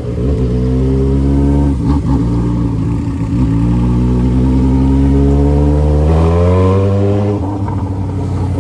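Yamaha XJ6's inline-four engine through a 3-inch exhaust, accelerating under load. The engine pitch climbs, dips at a gear change about two seconds in, climbs again for several seconds, then drops about seven seconds in.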